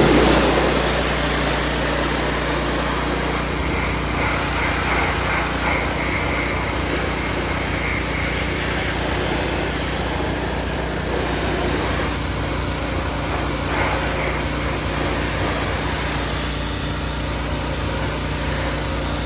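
AGT hot water pressure washer running steadily, its engine drone under the hiss of the high-pressure spray jet.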